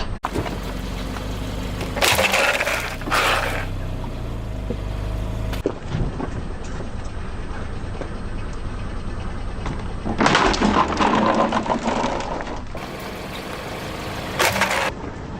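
Car tyre rolling over and crushing crunchy objects, heard as a series of crackling, breaking crunches over the low hum of the car's engine: two short crunches a few seconds in, a longer crunching stretch past the middle, and a brief one near the end.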